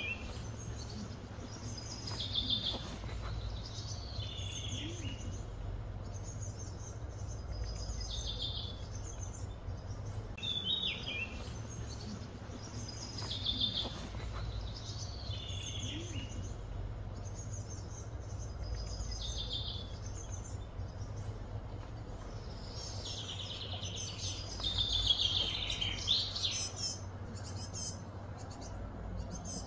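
Small birds chirping in short, repeated phrases every few seconds, with a busier stretch of calling near the end, over a steady low background hum.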